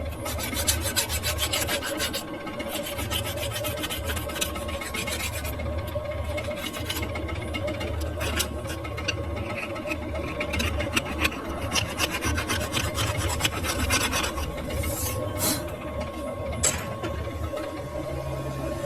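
A hand file rasping on a metal shaft in quick repeated strokes, with pauses, over a steady machine hum.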